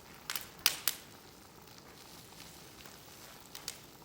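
Wood fire in a fire-pit stand crackling: four sharp pops in the first second and two more near the end, over a low steady hiss.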